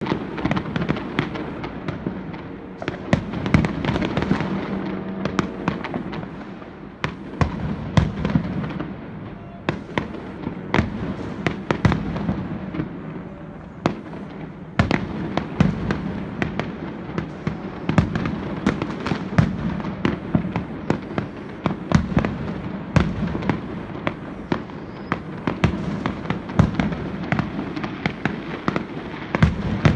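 Fireworks display: a steady barrage of sharp bangs and cracks from aerial shells, many a second, over continuous crackling.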